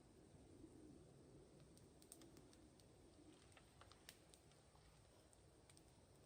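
Wood fire crackling faintly, with scattered, irregular small pops and snaps.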